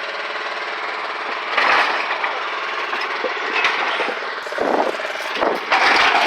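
A running engine with a rapid, buzzy rattle, surging louder about a second and a half in and again near the end.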